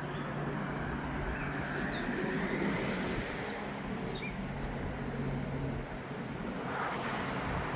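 Street traffic: a car engine humming steadily and a vehicle swelling past, with small birds chirping now and then over it.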